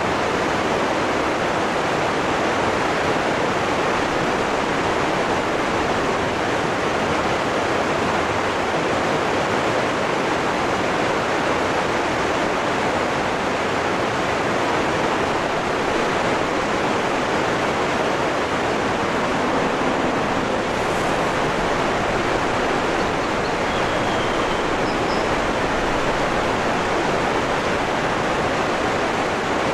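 Waterfall rushing in a steady, even roar of falling water, with a faint high chirp or two near the end.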